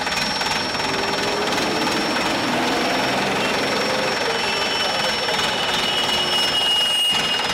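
Steady, dense workshop machinery noise with a thin, high, steady whine; a second, lower whine comes in about halfway through.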